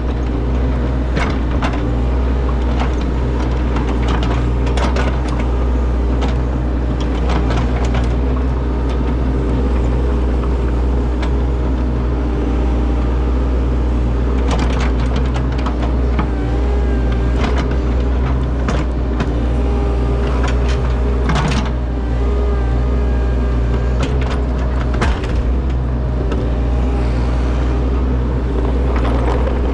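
Heavy diesel machinery running steadily, with a steady low engine drone, short whining tones and repeated sharp metallic clanks.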